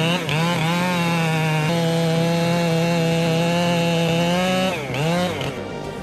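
Chainsaw engine running at high revs, its pitch dipping briefly and coming back up near the start and again about five seconds in.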